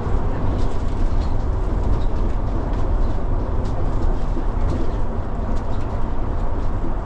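Steady low rumble of a city bus running along, heard from inside, with faint rattling ticks.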